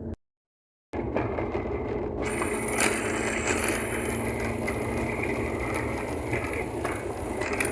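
Car driving on a snowy road in a blizzard, heard from inside the cabin: steady road and engine rumble with wind and hiss, which grows brighter about two seconds in. The sound drops out completely for most of a second just after the start.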